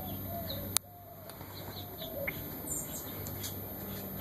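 Birds calling in the background: low gliding calls and brief high chirps. A single sharp click comes a little under a second in.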